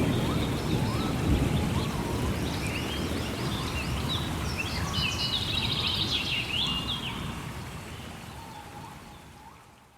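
Steady rain with a low thunder rumble tailing off at the start, and songbirds singing short chirping phrases over it in the middle. The whole soundscape fades out gradually toward the end.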